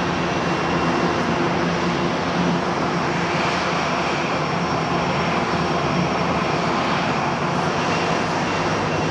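Jet airliner engines running: a steady, loud rushing noise with a few constant hums underneath.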